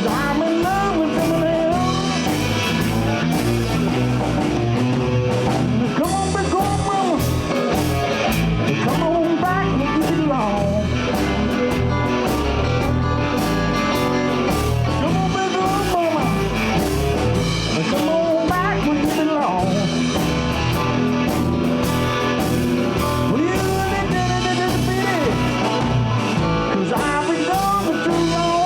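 Live blues band playing: electric guitar lead line with bent notes over bass and a drum kit, loud and steady throughout.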